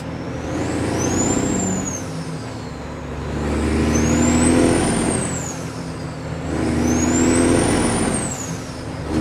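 Kenworth W900 diesel truck with loud pipes pulling a heavy excavator load up through the gears: three pulls, each rising in pitch with a high whine that climbs and falls away, with a dip at each gear change.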